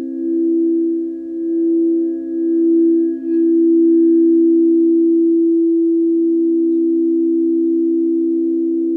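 Sustained pure tones of a sound-healing sleep frequency: a few close low pitches that beat in a slow swell about once a second, then settle into one steady tone about three seconds in.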